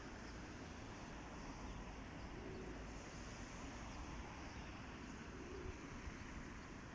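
Faint, steady outdoor background noise with a low rumble, and a few faint, short high chirps from birds.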